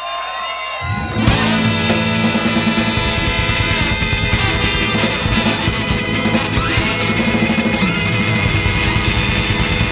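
Band music: sliding, sustained instrument tones for about a second, then the full band with drum kit and bass comes in together and plays on loudly.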